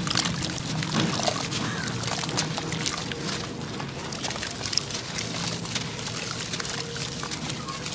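Sand-cement chunks crumbling: a steady, dense crackle of many small cracks, with grains trickling and pouring.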